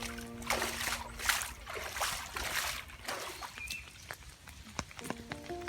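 Heavy rain falling with wet splashing surges about once a second, over soft held music notes.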